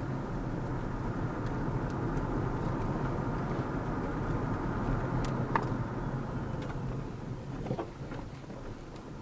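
A car driving along a road, with a steady low engine and tyre rumble and a few faint clicks.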